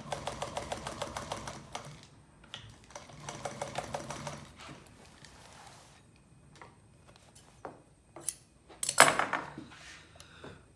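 Upholstery sewing machine stitching in two short runs of rapid, even ticking, followed by a few scattered clicks and a loud clatter about nine seconds in.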